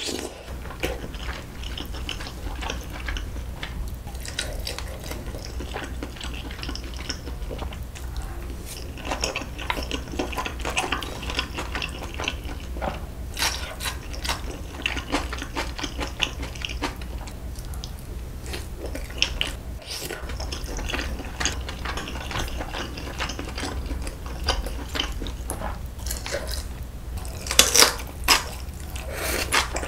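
Close-miked chewing of braised beef short ribs: a steady run of small wet mouth clicks and smacks, with a few louder bites near the end.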